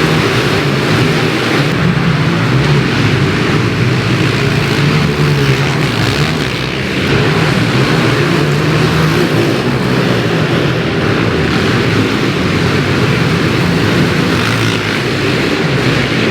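Pit bike engine running hard, its revs rising and falling as the bike is ridden round the track.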